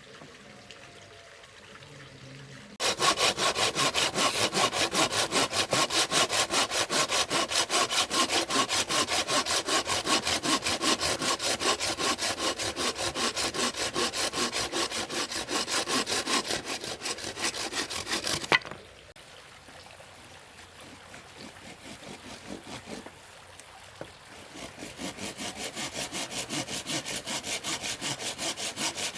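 Hand saw cutting wood in fast, even back-and-forth strokes. It stops suddenly after about fifteen seconds, then starts again more softly and builds toward the end.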